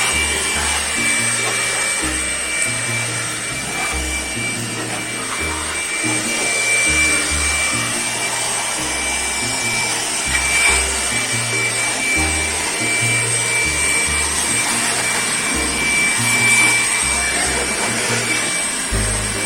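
A power tool running steadily with a high whine and a scraping, rubbing hiss, under background music with a bass line.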